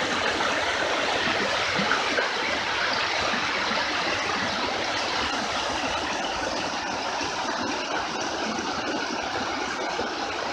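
Storm floodwater rushing in a strong, steady flow, an even continuous rush with no breaks.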